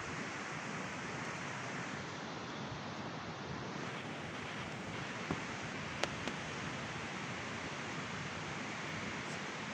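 Bonfire burning with sneakers and socks in it: a steady rushing hiss, with a few sharp crackling pops a little past the middle.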